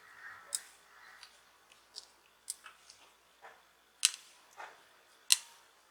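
Small sharp clicks and taps of tools and plastic or metal parts being handled while a smartphone is taken apart, a scattering of them with the two loudest about four and five seconds in.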